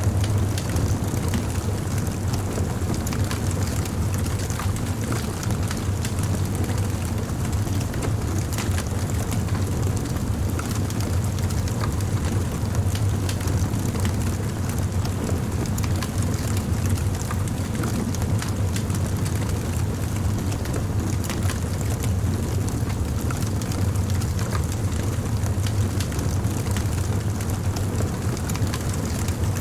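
Wood fire burning, with a steady low rumble and frequent small crackles and pops scattered throughout.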